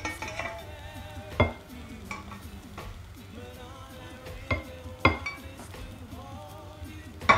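Plantain slices frying in hot oil with a light, steady sizzle, broken by four sharp clinks of a utensil against the pan and plate as fried pieces are lifted out; the last clink, near the end, is the loudest.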